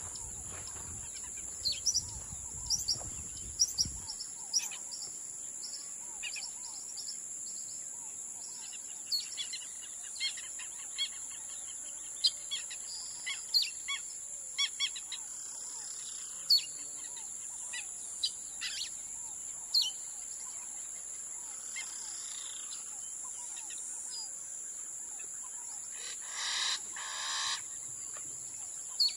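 Wild birds chirping and calling in short, sharp notes scattered throughout, with two longer, harsher calls near the end, over a steady high-pitched whine.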